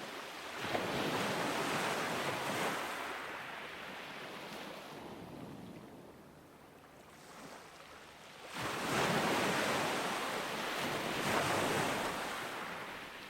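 Ocean waves breaking on a beach: two waves wash in, about a second in and again about eight and a half seconds in, each a surge of surf that fades out, with a quieter lull between them.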